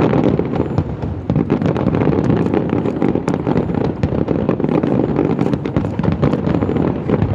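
Firecrackers going off in a dense, continuous crackle of rapid sharp bangs, starting abruptly and keeping on loud and unbroken.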